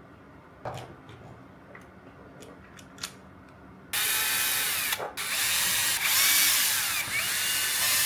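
A handheld power drill starts up about four seconds in and runs in loud bursts, its motor whine rising and falling in pitch with a short stop about a second after it starts. Before it, faint clicks of small parts being handled.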